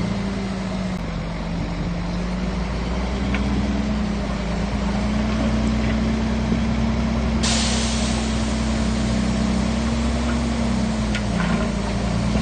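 Shantui bulldozer's diesel engine running steadily under working load, its pitch dipping and rising a little. A loud steady hiss joins abruptly about seven and a half seconds in, with a few faint metallic clanks.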